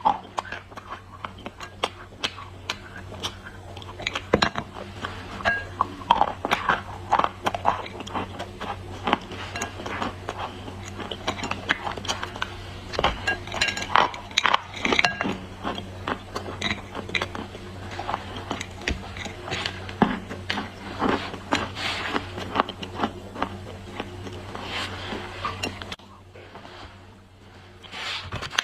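Dry clay being crunched and broken: a dense run of sharp cracks, crackles and clinks, thinning out near the end, over a steady low hum.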